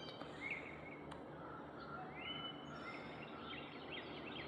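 Wild birds singing over steady background noise: scattered chirps, a short rising whistle about halfway, then a quick run of repeated chirps near the end.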